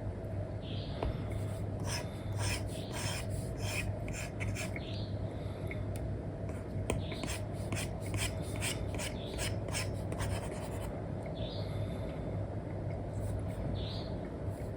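Stylus nib scratching and tapping on a paper-like screen protector: an Apple Pencil with an Elecom nib drawing on an iPad in quick strokes, thickest a couple of seconds in and again in the middle. A steady low hum runs underneath.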